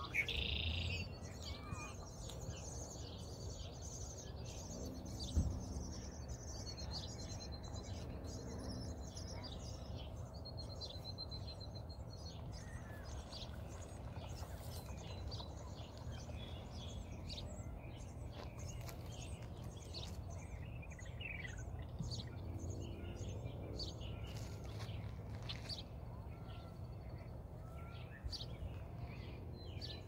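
A flock of small birds chirping and twittering: many short, overlapping high calls with a couple of quick rattling trills, over a steady low background rumble. A single thump about five seconds in.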